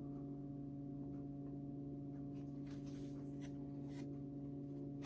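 Steady low hum made of a few held tones, with a few faint soft rustles or ticks about halfway through.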